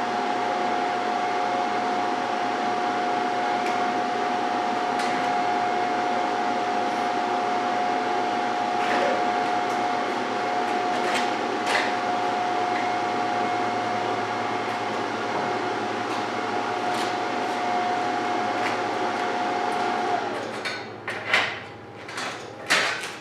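MIG welder arc running steadily for about twenty seconds as a weld bead is laid, a continuous hiss with an even tone, then stopping suddenly. A few sharp knocks follow near the end.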